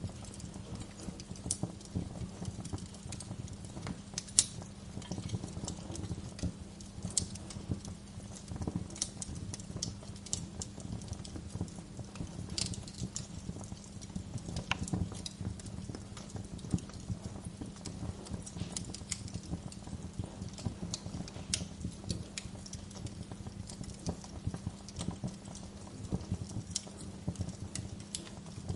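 Fire in a fireplace crackling: irregular sharp pops and snaps over a steady low rumble, with one loud pop about four seconds in.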